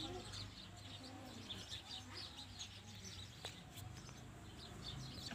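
Faint chirping of small birds in the background: many short, high calls scattered throughout, over a low steady hum.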